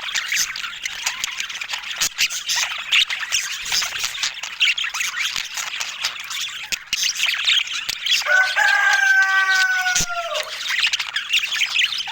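Budgerigars chattering and warbling continuously in a dense stream of quick chirps. About eight seconds in, a single drawn-out call lasting about two seconds rises above the chatter and falls in pitch at its end.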